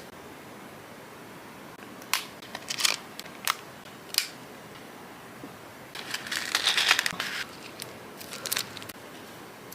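Jewellery gift packaging being handled: a few sharp clicks and taps, then a denser crinkling stretch about six seconds in, followed by a few more clicks.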